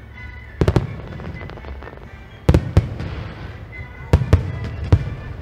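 Aerial fireworks shells bursting overhead: sharp bangs in clusters, a pair less than a second in, two more around two and a half seconds, and three after four seconds.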